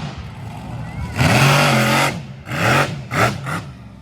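A monster truck's big engine revving in three bursts, its pitch rising and falling with each blip of the throttle. The first rev is the longest.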